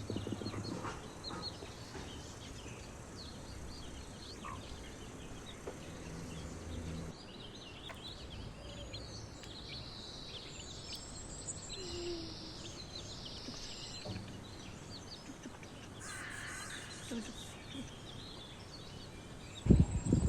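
Outdoor ambience of many small birds chirping and calling over a steady faint background hiss. Near the end a run of loud low knocks begins.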